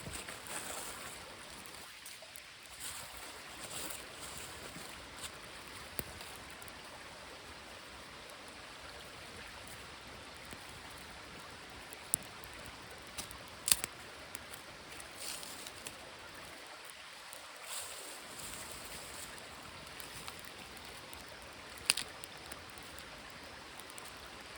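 Steady rush of a small stream, with a few sharp clicks or knocks: one about halfway through and one near the end.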